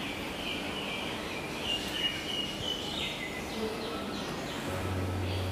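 Small birds chirping over steady background noise. A low steady hum comes in near the end.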